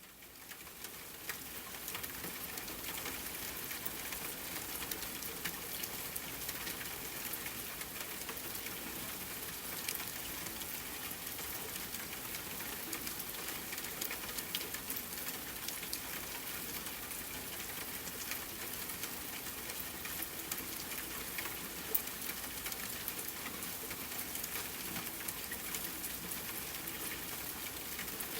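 Rain falling steadily on a tent, with a crackling campfire mixed in: a continuous patter dotted with small sharp ticks and pops. It fades in over the first couple of seconds.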